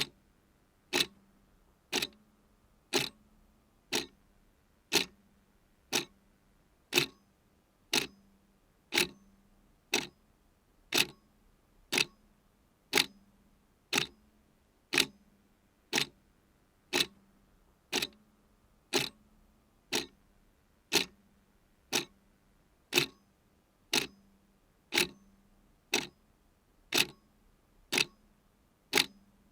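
Clock ticking steadily once a second, every other tick a little louder, like a tick and a tock.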